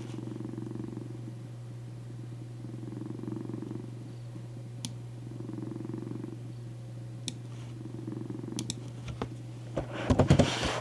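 Domestic cat purring on a lap, swelling and fading with each breath over a steady low hum. A few light clicks, then a louder flurry of clicks and rustling near the end.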